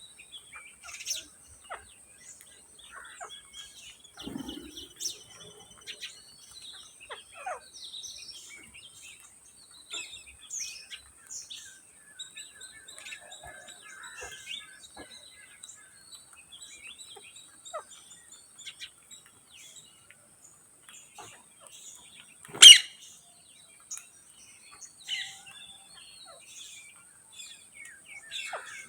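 Green ringneck parrots (rose-ringed parakeets) calling: scattered short chirps and chatter, with one loud, sharp screech late on.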